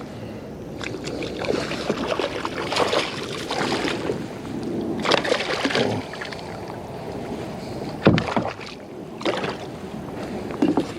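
Water splashing and sloshing around a kayak, in irregular surges, with a sharp knock on the hull about eight seconds in.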